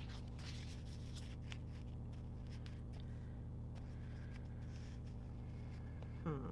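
Faint, scattered light ticks and rustles of paper and stickers being handled on a desk, over a steady low hum. A brief murmured vocal sound near the end.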